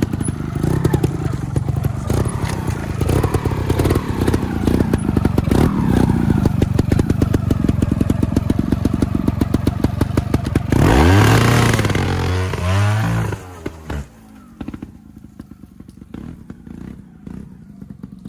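A trials motorcycle engine running at low revs with an even, rapid beat. It is revved up and back down twice around eleven seconds in, then it drops away about fourteen seconds in.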